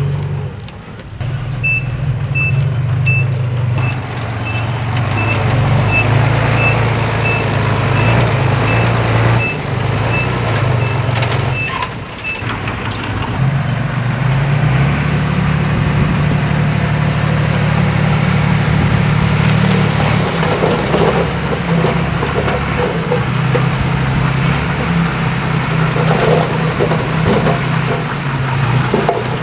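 Heavy diesel construction machine engine running steadily. Its reversing alarm beeps about every 0.7 seconds for roughly ten seconds, then stops.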